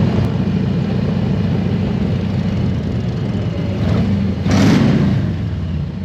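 Harley-Davidson Road Glide's V-twin engine running steadily as the bike cruises, with a brief louder rush of noise about four and a half seconds in.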